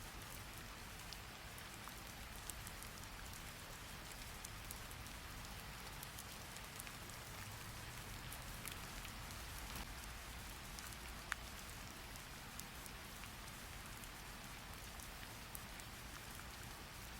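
Steady rain, an even hiss with scattered sharp drip-like clicks, one louder click about eleven seconds in.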